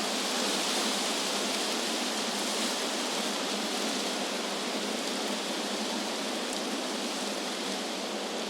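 Wind blowing through trees as a steady rushing hiss, even throughout, with no gusts or separate sounds standing out.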